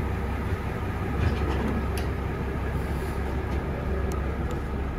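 A train rolling slowly at close range: a steady low rumble with a few sharp metallic clicks.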